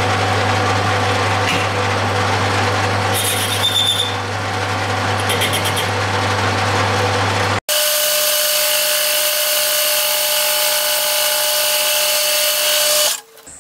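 Metal lathe turning the outer rim of a cast iron flywheel with a carbide tool: a steady motor hum under a harsh cutting noise. About halfway through the sound switches abruptly to a higher, steadier tone without the low hum, and it stops shortly before the end.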